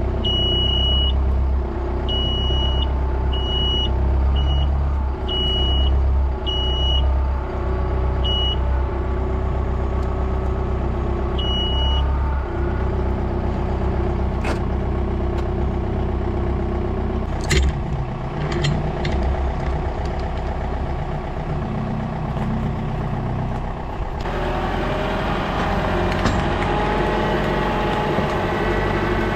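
A machine's engine running steadily, with a series of short, high-pitched beeps of uneven length through the first twelve seconds and a few sharp clicks later. About 24 seconds in, the engine picks up speed.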